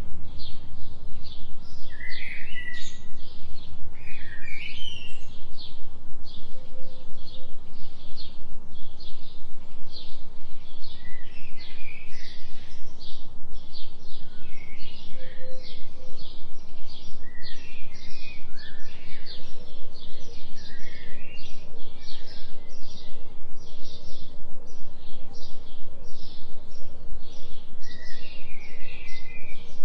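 Birds chirping in a forest soundscape over a steady low tone that pulses about three times a second: a 3 Hz delta binaural beat. Short high chirps repeat rapidly throughout.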